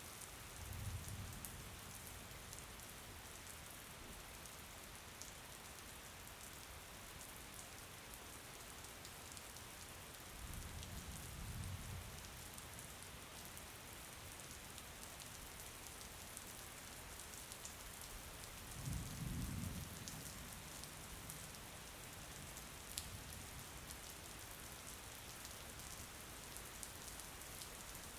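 Steady rain falling, with scattered drop ticks, at a low level. Three brief low rumbles rise out of it: one about a second in, one near the middle and one about two-thirds of the way through.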